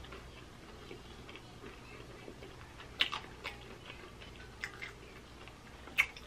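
A person chewing a mouthful of fried chicken sandwich: scattered soft mouth clicks and crunches, with sharper ones about three seconds in and near the end.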